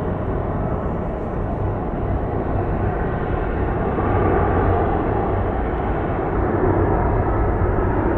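Jet airliner engines running with a steady, rumbling roar, growing a little louder about halfway through.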